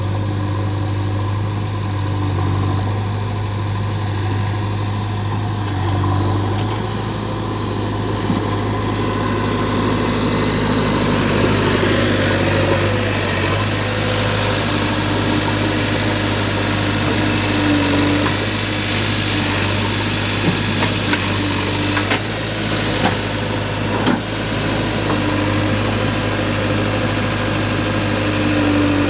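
Heavy diesel engine running steadily, with a few sharp knocks in the second half.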